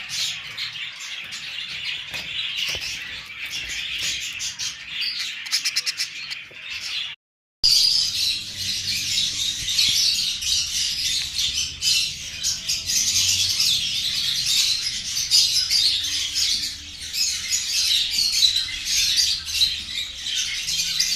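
Many birds chirping and squawking together in a dense, continuous chorus. The sound cuts out completely for a moment about seven seconds in, then returns louder and higher-pitched.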